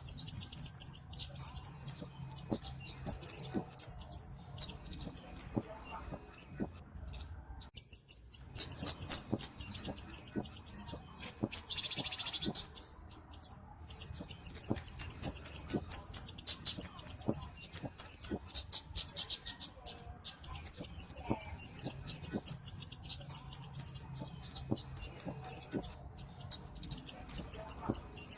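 Flowerpecker (cabe-cabean) song: long runs of rapid, very high-pitched ticking chips broken by short pauses, with one brief buzzy note about twelve seconds in.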